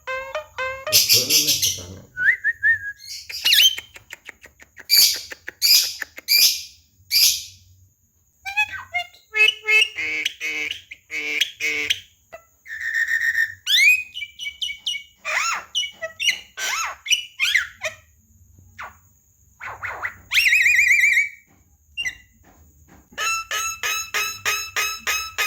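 Javan myna singing a varied, chattering song: clear whistles and gliding notes mixed with harsh, scratchy calls. Near the end comes a fast run of repeated notes, about four a second.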